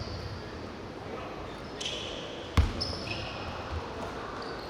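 Basketball game on an indoor court: a single sharp ball bounce on the floor about two and a half seconds in, with short high squeaks of sneakers on the court around it, over the hall's steady background noise.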